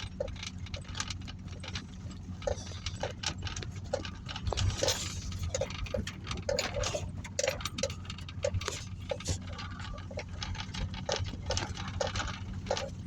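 Rain with water drops falling irregularly: many sharp ticks and short plinking drips, over a steady low hum.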